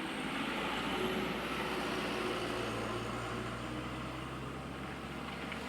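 Motor vehicle engine running steadily, with a low hum and road noise.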